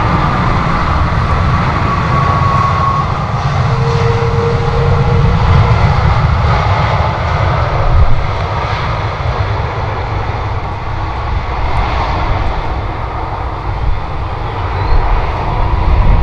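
Jet airliner engines running loud and steady, with a faint whine in the first few seconds.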